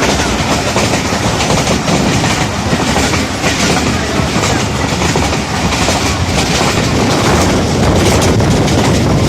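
A train running on the rails: a loud, steady rumble with a dense clatter of wheels over the track.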